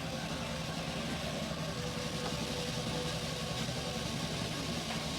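Steady mechanical hum of a GEA R9500 robotic milking unit running while it milks a cow.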